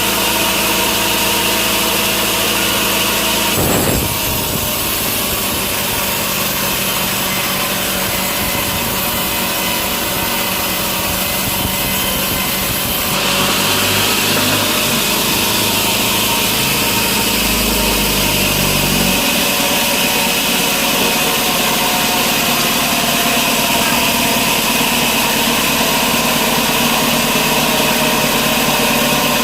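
Sawmill machinery running steadily, a saw cutting through wood. The sound changes about four seconds in and again about thirteen seconds in.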